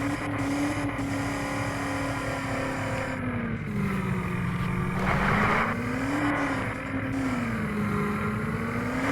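A vehicle engine running under load, its pitch sagging and recovering several times as the revs drop and pick up again, with a short burst of hiss about five seconds in.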